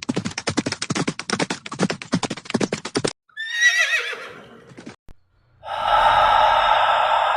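Horse galloping sound effect: fast hoofbeats for about three seconds, then a horse whinnying with a wavering, falling pitch. A couple of seconds later a long breathy rush of sound begins and slowly fades.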